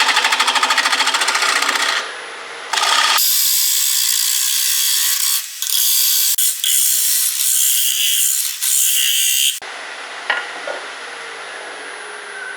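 Paper rubbed by hand against a spalted oak bowl spinning on a wood lathe: a rhythmic rasp, then a longer hissing stretch that breaks off a few times and stops abruptly about three quarters of the way through. The lathe keeps running after, with a faint whine.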